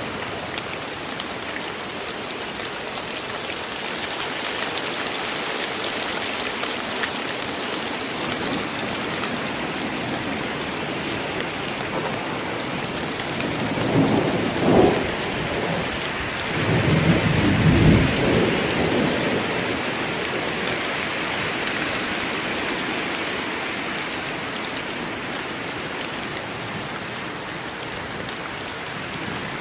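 Steady rain falling in a forest, with thunder rumbling twice about halfway through, the second roll longer and deeper.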